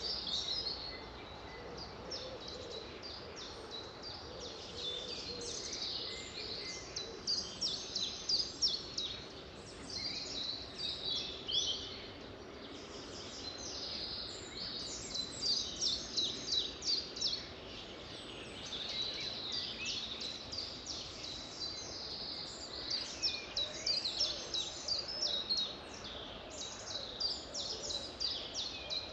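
Several songbirds singing over one another: quick high chirps and rapid trills, coming in bursts every second or two, over a steady faint background hiss.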